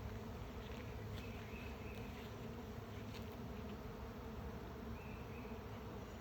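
A swarm of honey bees in flight, making a steady, continuous buzzing hum as the swarm moves slowly through the air.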